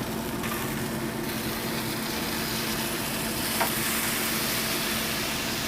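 Sauced chicken halves sizzling steadily on a hot grill grate as they are flipped, over a steady low hum, with one light click about three and a half seconds in.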